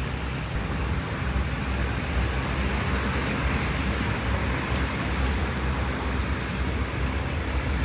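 Steady running noise of a Hitachi RHN diesel railcar in motion, heard from on board: a low diesel engine rumble under an even hiss of wheels on the rails.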